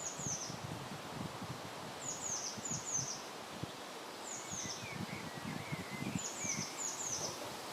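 Wind gusting and rustling, with a small bird's high, short chirps that fall in pitch, coming in quick runs of two or three every second or two, and a few softer, lower chirps between them.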